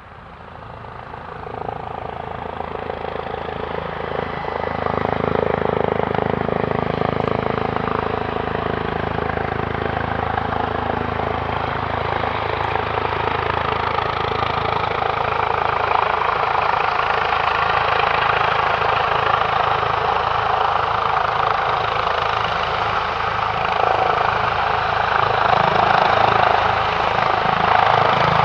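Airbus Helicopters H145, a twin-turbine helicopter, flying with a steady rotor and turbine noise. It grows louder over the first five seconds, then stays loud and steady.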